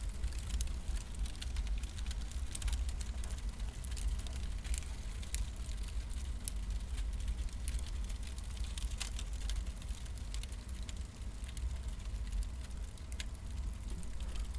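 Burning firewood crackling and popping in irregular sharp snaps over a steady low rumble.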